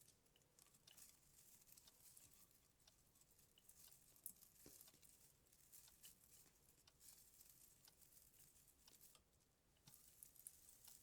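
Faint, irregular rustling with small light clicks and taps, as Christmas-tree baubles are handled and hung on the branches.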